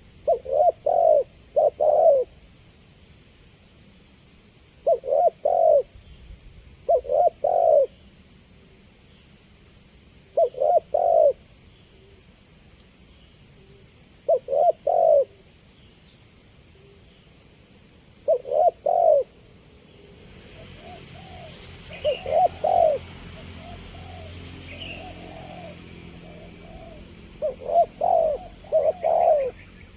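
Spotted dove (tekukur) cooing: short phrases of three or four coos repeated every few seconds. Fainter coos from another dove join in the background about two-thirds of the way through, over a steady high hiss.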